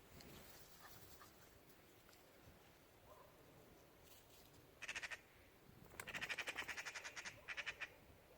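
A bird's rapid chattering rattle: a short burst about five seconds in, then a longer run of fast, even pulses and a brief last burst near the end, over faint outdoor background.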